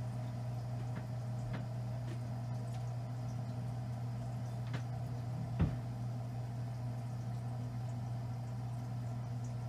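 Lennox high-efficiency gas furnace running steadily with its burner lit after a flame sensor cleaning, a low steady hum. A few light ticks and one short knock about halfway through.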